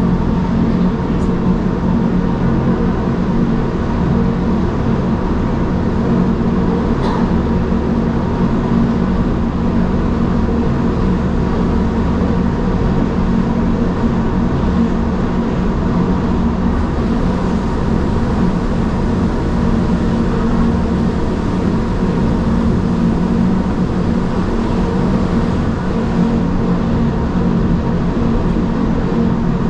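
Gornergrat Bahn electric rack-railway train running downhill, heard from inside the passenger car: a steady rumble of wheels and running gear with a constant low hum and a faint higher whine. One light click about seven seconds in.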